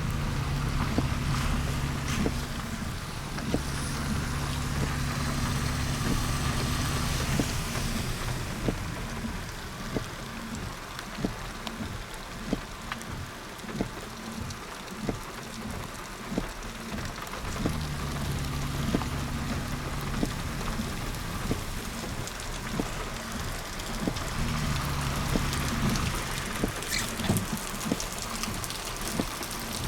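Vehicle driving, heard from inside: a steady low engine hum that comes and goes, over road noise, with many scattered light ticks.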